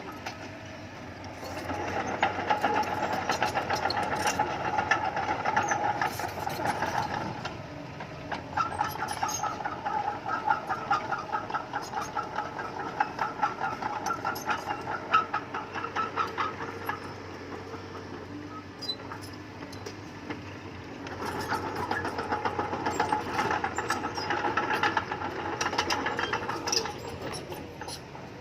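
Bulldozer working, its diesel engine running under load with steel tracks clanking and squealing, in three bouts separated by quieter running.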